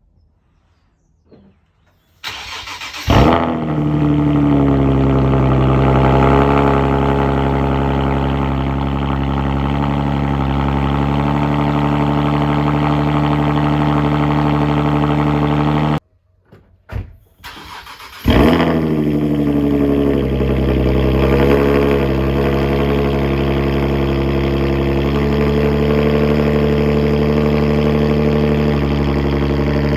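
Nissan 370Z's 3.7-litre V6 cold-starting twice, comparing its exhaust on stock and high-flow catalytic converters. Each time there is a short crank, then the engine catches with a rev flare that falls away into a steady cold idle.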